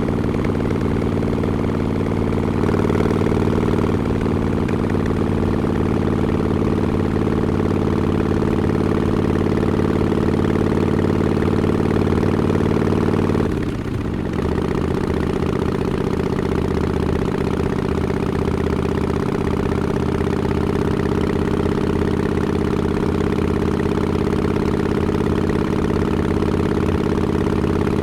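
Harley-Davidson XL1200X Forty-Eight's air-cooled V-twin running steadily through Vance & Hines Short Shots pipes with the quiet baffle, with a brief drop and a slight change in note about halfway through before it settles again.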